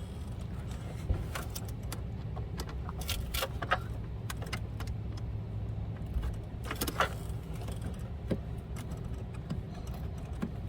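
Screwdriver working loose the screws on an engine air filter housing: scattered metallic clicks and scrapes, over a steady low hum.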